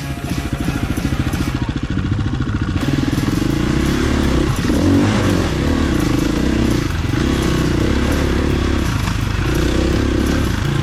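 Dirt bike engine running, its note swelling and easing every second or two as the throttle is opened and closed.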